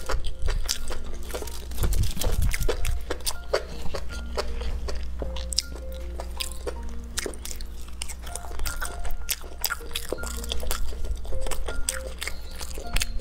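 Close-miked chewing and biting, with frequent short, sharp clicks and crunches, as spicy grilled tofu skewers and enoki mushrooms are eaten. Background music of slow held notes plays underneath.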